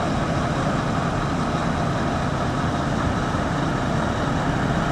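Heavy truck engine running steadily, a dense, even rumble.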